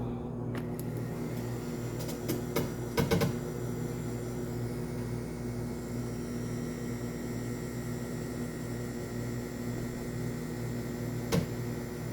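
Mini washing machine running, its small electric motor giving a steady hum, with a few light knocks about two to three seconds in and once near the end.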